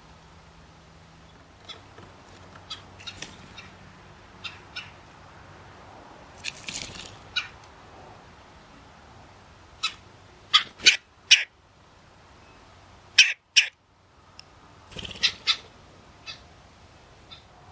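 Blue jays and red-bellied woodpeckers calling: short separate calls scattered through, some in quick runs, the loudest a run of four about ten seconds in and a pair a few seconds later.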